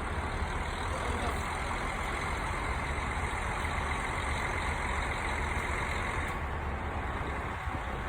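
KiHa 40 diesel railcar's engine running steadily with a deep rumble and a hiss over it; the hiss eases slightly about six seconds in.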